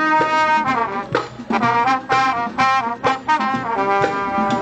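Live college band playing, its brass section of trumpets and trombones holding chords punctuated by sharp drum hits.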